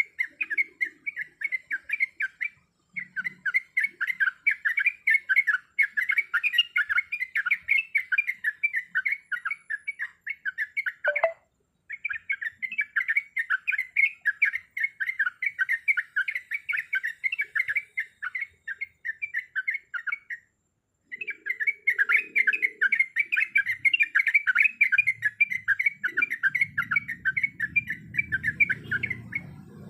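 Yellow-vented bulbul (trucuk) singing a fast, chattering run of rapid notes, broken by three brief pauses. This is the long rolling song ('ropel') used as a tutoring recording for caged birds. A faint low rumble comes in near the end.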